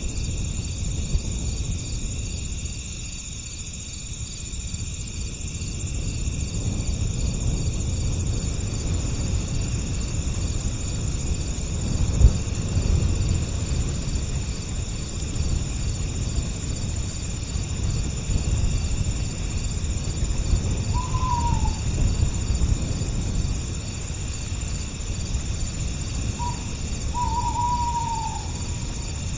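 Crickets chirring steadily in several high, even bands over the low rumble of a breeze. A bird gives a short falling call about two-thirds of the way through and a couple more near the end.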